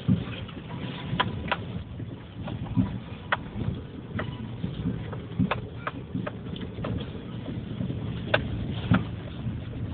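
Subaru Forester driving over rough ground: a steady low engine and road rumble with frequent irregular sharp knocks and rattles, the loudest about a second in, near the middle and a little after eight seconds.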